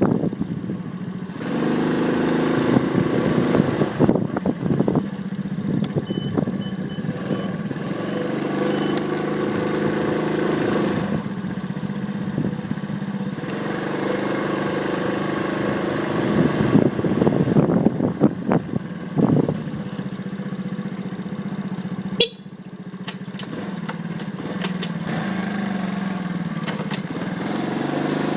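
Motorcycle engine running while being ridden, picked up by a phone mounted on the bike; its pitch rises and falls with throttle and gear changes. It briefly drops away about two-thirds of the way through, then revs back up near the end.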